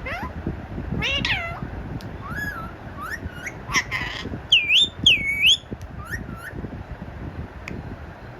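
A parrot calling: a string of meow-like calls and short squeaky chirps, then two loud swooping whistles about halfway through, and a few more short calls.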